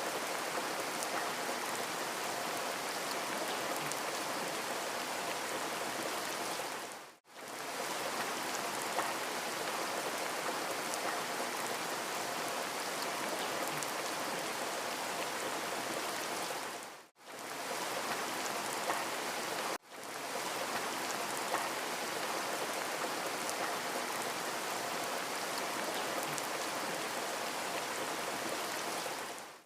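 Steady rain, an even hiss of many drops. It drops out briefly three times: it fades away and back within about a second roughly a quarter of the way in and again a little past halfway, then cuts out abruptly for an instant shortly after.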